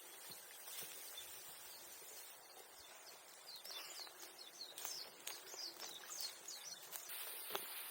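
Quiet outdoor ambience in which a small bird gives a quick run of short chirps for a few seconds in the middle, with scattered sharp clicks and knocks, the strongest near the end.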